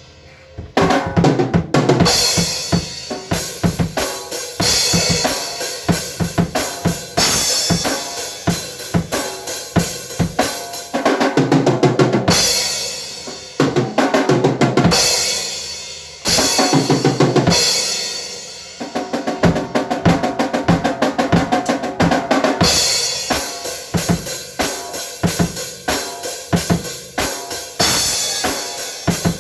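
Drum kit played fast, with dense bass-drum and snare strikes and repeated crashing washes over them. It starts up about a second in after a brief lull.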